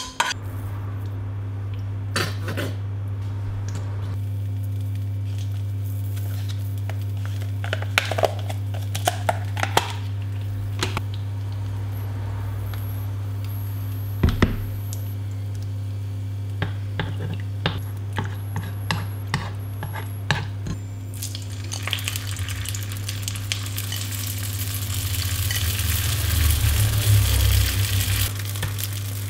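Scattered clinks and taps of utensils against dishes and pans over a steady low hum. From a little past twenty seconds in, oil sizzles in a wok as spring rolls fry, growing louder near the end.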